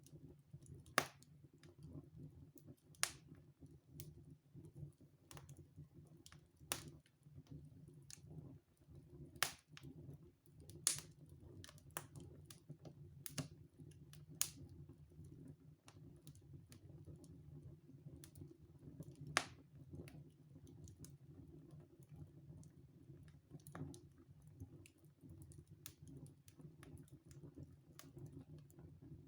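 Wood fire burning in a fireplace, crackling irregularly with a few sharper pops, over a low steady rumble.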